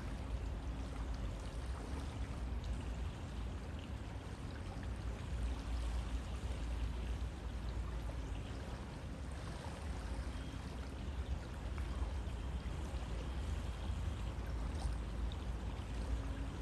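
River water flowing, a steady even rush with a deep low rumble underneath.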